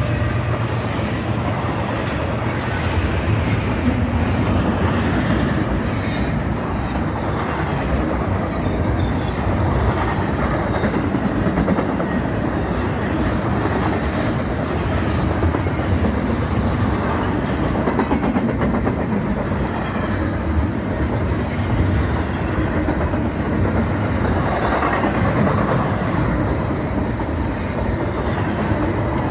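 Freight train rolling past at track side, a steady, unbroken noise of wheels running on the rails.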